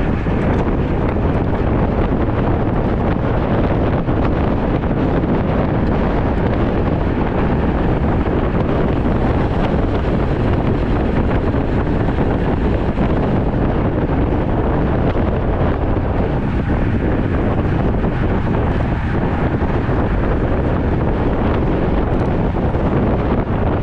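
Wind buffeting the microphone of a rider on a moving road bike: a loud, steady rushing noise, heaviest in the low end.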